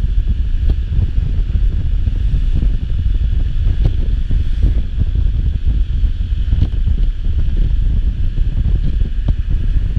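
Wind buffeting the microphone: a loud, steady low rumble, with faint steady traffic or engine noise underneath.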